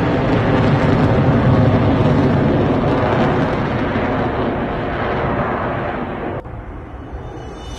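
Loud jet noise from an F-22 Raptor's twin Pratt & Whitney F119 turbofan engines, a deep rushing rumble that slowly fades. About six seconds in it drops suddenly to a quieter jet sound.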